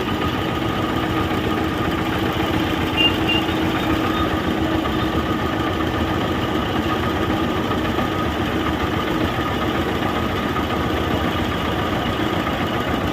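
Pump-set engine running steadily, powering a mixer grinder jar that is grinding vegetables.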